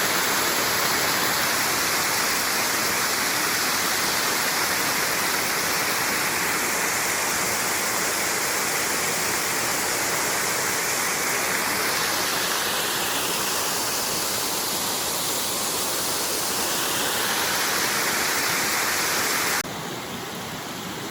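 Steady rushing of a small creek waterfall running at low flow. The level drops suddenly a couple of seconds before the end.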